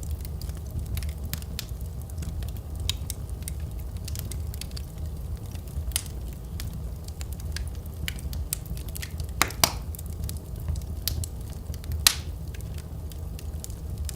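Wood fire crackling in a fireplace: scattered sharp pops and snaps over a steady low rumble, with two louder pops past the middle.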